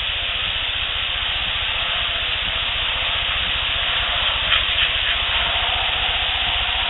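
Steady hiss with a low rumble beneath it, and a few faint clicks about four and a half seconds in.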